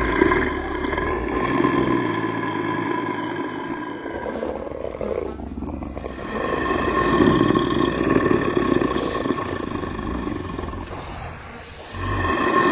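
Deep, rasping monster growl: a human voice growled into a plastic cup and slowed and pitched down. It comes as two long drawn-out growls, with a brief dip between them about five seconds in, and another begins just before the end. A steady ringing tone sits above the growls.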